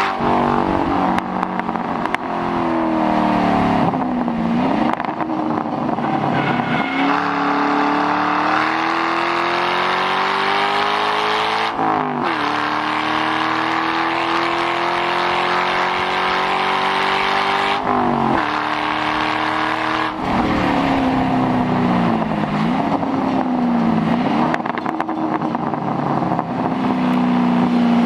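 2006 Mustang GT's 4.6-litre V8 with mufflers deleted, driven hard: the exhaust note climbs in long pulls and drops sharply at each gear change, with the revs rising and falling unevenly in between.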